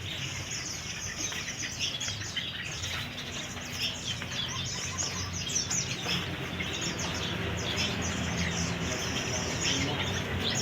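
Many caged songbirds chirping and twittering at once, a dense overlapping chorus of short high calls.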